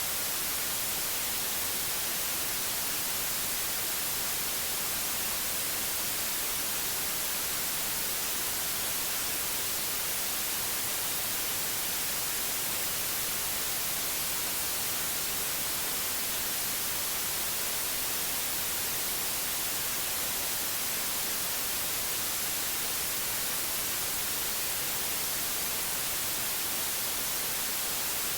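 Steady white noise: an even, unchanging hiss, brightest in the high end, with no breaks or events.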